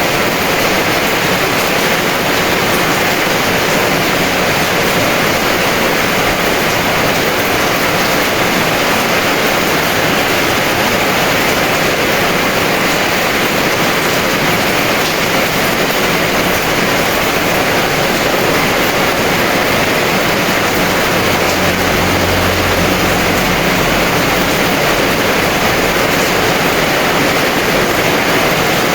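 Heavy rain falling in a steady, dense downpour. A brief low rumble comes in about three quarters of the way through.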